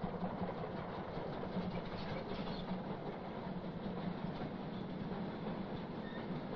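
Passenger train running past on the neighbouring track: a steady noise of wheels rolling on the rails.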